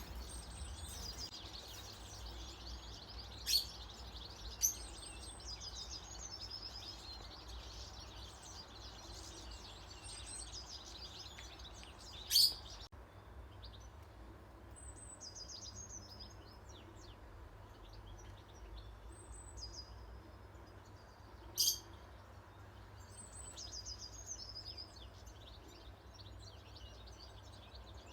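Small wild birds chirping and singing, with the same short twittering phrase repeating over and over. A few brief, much louder sharp calls stand out, four times in all, over a faint low rumble.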